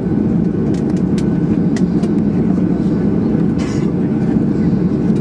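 Steady low rumble inside the cabin of a Boeing 737-800 on the ground with its engines running, with a few faint clicks.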